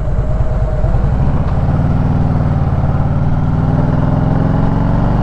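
Motorcycle engine pulling under way, its revs rising steadily over a few seconds.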